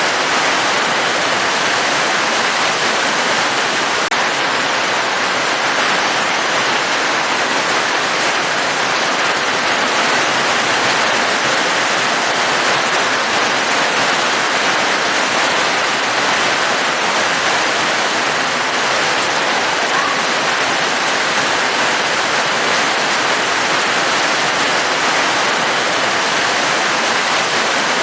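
Steady, dense rainfall: an even hiss of rain with no breaks or changes in level.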